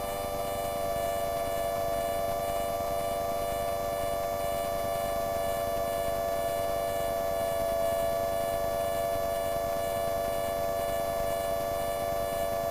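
Light aircraft engine drone heard through the cockpit intercom: a steady, unchanging hum of several pitches.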